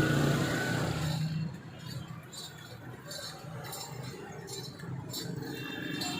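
Diesel engine of a YTO 604 tractor running, easing off to a quieter steady hum about a second and a half in, with light metallic clinks repeating over it.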